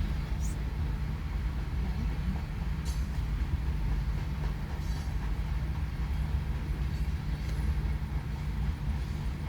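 CSX freight train's cars rolling past, a steady low rumble of steel wheels on the rails.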